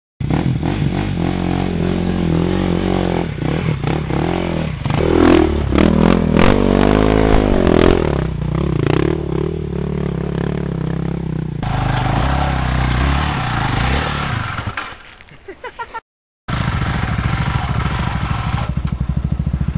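Dirt bike engines running and revving, the engine pitch rising and falling several times in the middle. The sound cuts out briefly near the end and comes back with an engine running steadily.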